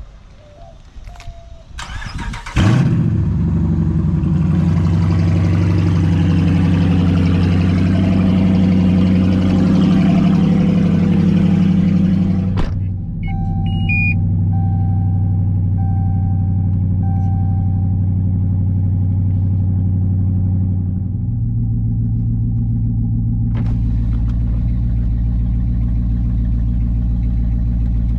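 2016 Dodge Charger R/T's 5.7-litre HEMI V8 cranking and catching about two and a half seconds in, then running at a raised start-up idle. A dashboard chime beeps about four times shortly after, and the idle drops to a lower, steady note about two-thirds of the way through.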